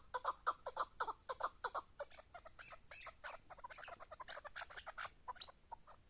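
Chukar partridge calling: a rapid series of clucking notes, about four a second, that after about two seconds turn into faster, higher, more varied notes.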